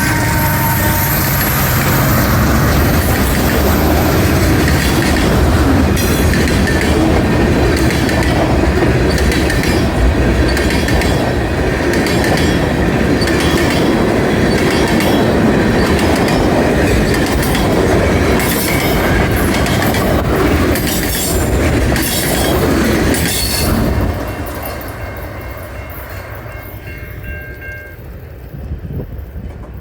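CN local freight train rolling past, with a steady heavy rumble, wheels knocking rhythmically over rail joints and a high wheel squeal near the start. The noise falls away sharply about 24 seconds in as the train moves off.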